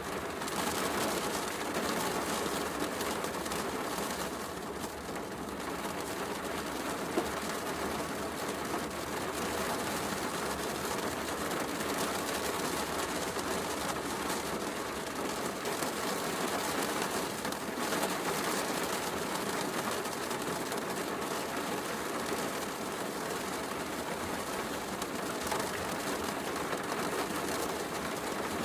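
Steady heavy rain with a wood fire crackling, and one sharp pop about seven seconds in.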